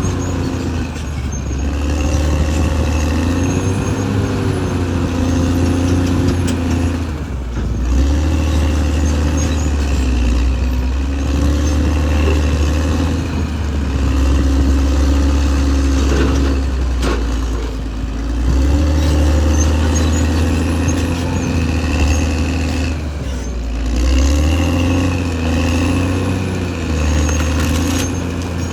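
Caterpillar D6R XL bulldozer's diesel engine working under load, its pitch rising and falling as it pushes. A higher whine rises and falls along with it, and the loudness swells every five to six seconds.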